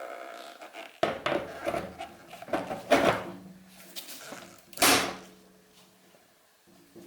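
Several knocks and clanks of metal tools or parts being handled, each followed by a short ringing, the loudest about three and five seconds in.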